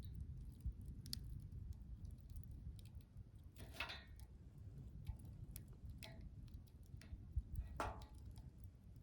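Wood campfire burning with a low steady rumble and scattered small pops and crackles, with two louder crackling hisses about four seconds and eight seconds in.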